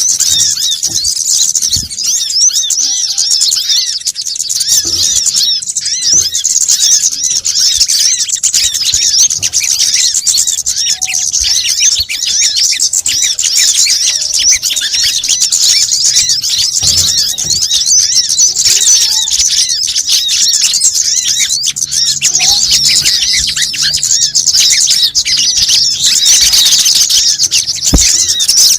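A dense, continuous chorus of many small birds' high-pitched chirps and twitters overlapping without pause, as played for a bird lure.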